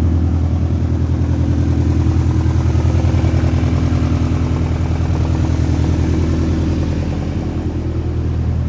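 Honda Civic Type R's 1.6-litre B16B VTEC four-cylinder engine idling steadily, about a minute after a cold start. It dips a little in level about seven seconds in.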